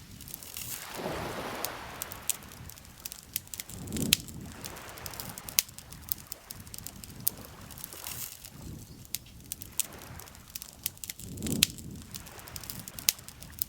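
Wood campfire crackling, with frequent sharp pops and snaps. A soft whooshing swell rises and falls every three to four seconds underneath.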